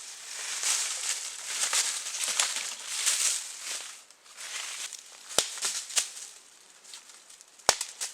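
Rustling and crunching for about four seconds, then three sharp snaps, the last near the end being the loudest.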